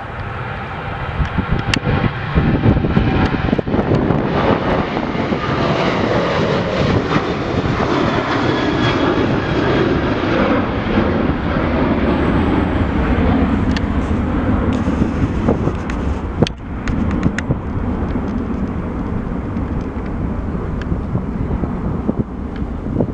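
A jet airliner's engines at close range, growing loud about two seconds in, holding through the middle with a faint whine over the rushing noise, then slowly easing off.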